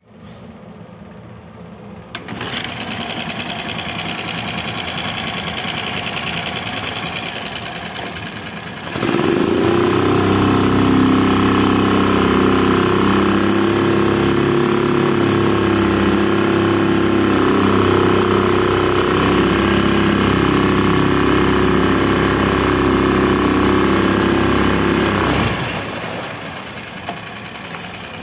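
Tohatsu 6 hp four-stroke outboard motor starting about two seconds in and running at idle. It revs up about nine seconds in and holds a steady higher speed, then drops back to idle near the end.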